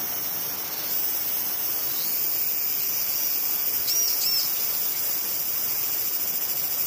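A steady high-pitched chorus of forest insects shrilling over a broad, even rushing noise, with a few short bird chirps about three to four seconds in.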